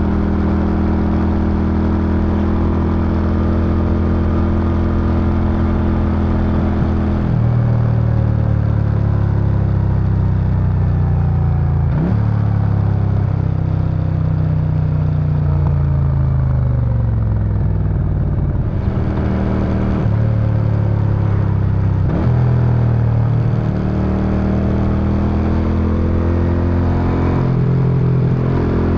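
Suzuki Intruder VS800's V-twin engine and exhaust running under way, its revs rising and falling. The pitch drops sharply and then climbs again twice, about twelve seconds in and near twenty-two seconds in, as gears are shifted, with a long slide down in revs between them.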